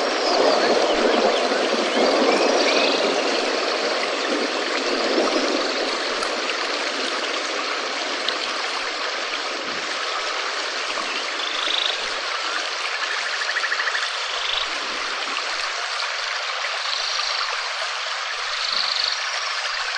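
Steady rain falling, a little heavier in the first few seconds, with a few faint short high chirps over it.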